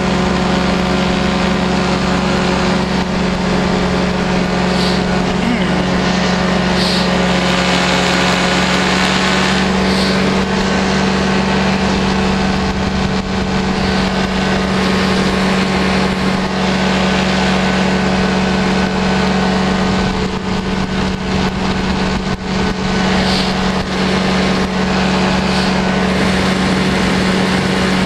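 Powered parachute's engine and propeller running steadily in flight, one unchanging drone at constant power.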